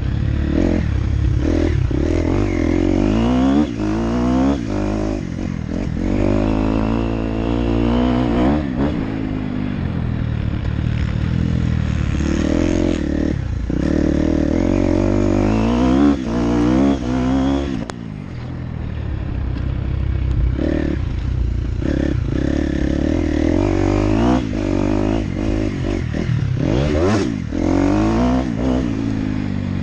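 Motocross dirt bike engine being ridden hard, revving up and dropping off again and again as the throttle opens and closes, with some clattering.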